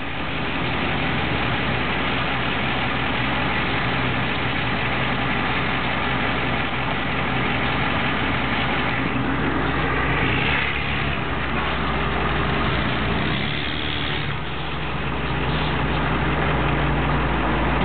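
International S1600 truck's engine running steadily, with a brief dip in level about fourteen seconds in.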